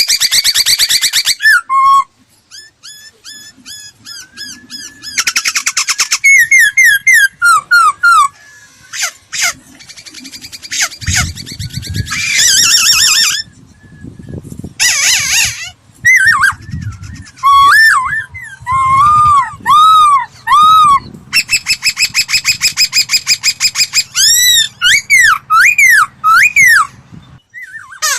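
Laughingthrush song: a loud, varied run of phrases that mixes rapid harsh trills and buzzy stretches with series of repeated whistled notes that rise and fall, broken by short pauses.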